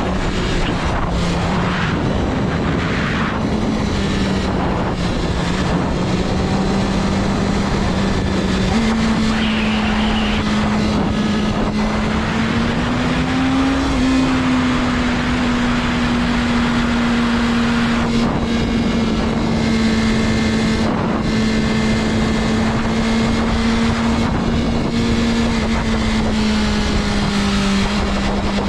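BMW S1000RR's liquid-cooled inline-four engine running at a steady road speed under heavy wind rush. Its note jumps up suddenly about nine seconds in, climbs a little a few seconds later, and settles slightly lower near the end.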